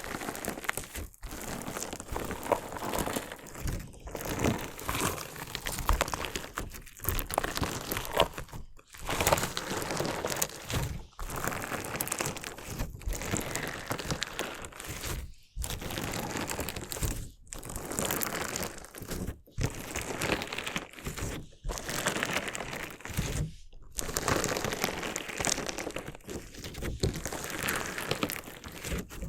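Crunchy slime crackling and crunching as it is worked, in dense stretches of a second or two broken by short pauses.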